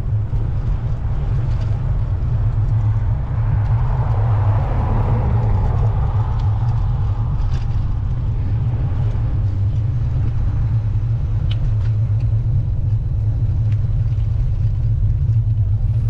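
Steady low wind rumble on the microphone of a moving bicycle. A car's road noise swells and fades about four to eight seconds in.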